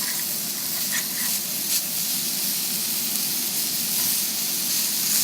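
Shake-and-bake coated chicken frying in a pan, a steady sizzle with a few faint clicks.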